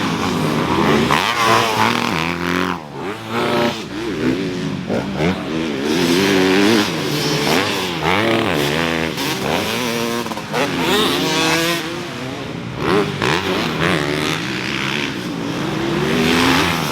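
Several motocross dirt bikes running on the track, their engines revving up and dropping off again and again, with the pitches of different bikes overlapping.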